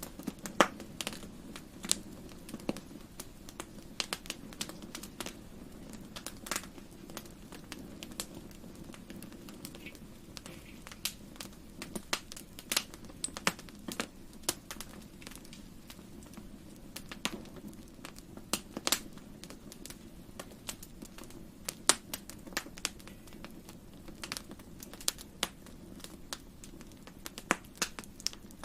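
Wood fire in a fireplace crackling, with sharp pops coming at irregular moments over a steady low rush of burning.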